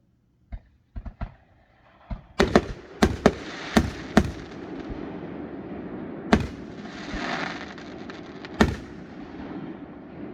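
Fireworks going off: a few small pops, then a quick run of about six sharp, loud bangs, with crackling noise filling the gaps and two more single bangs later.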